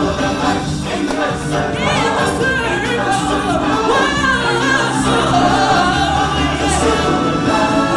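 Stage show music: a choir of voices singing together over a full band backing, loud and steady.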